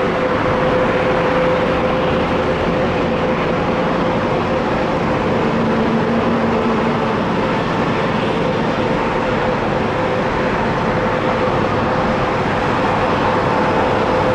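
Jet airliner engines running loud and steady, an even rush of noise with a steady hum underneath.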